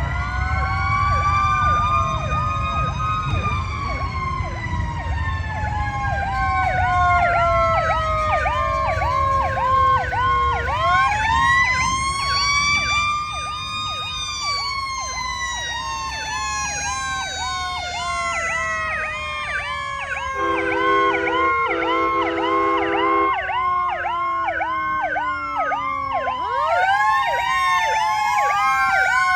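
Several emergency-vehicle sirens sounding together: slow rising-and-falling wails overlap a fast yelp that repeats about twice a second. Two short horn blasts come a little past two-thirds of the way through.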